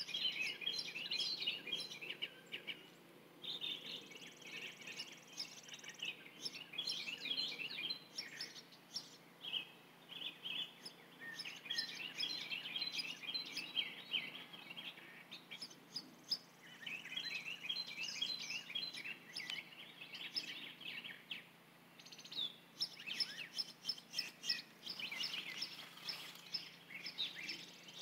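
Several songbirds singing, faint: rapid chirps and trills that come in clusters with short pauses between.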